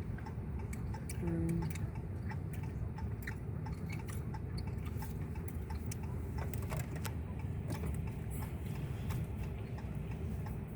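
Steady low road and engine rumble inside a moving car's cabin, with many light scattered ticks and clicks over it.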